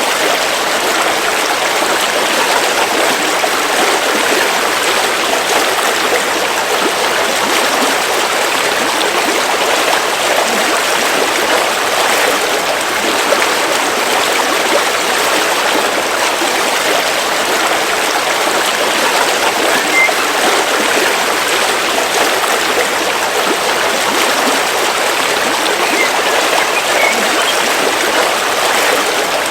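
A river flowing steadily, a continuous even rush of running water.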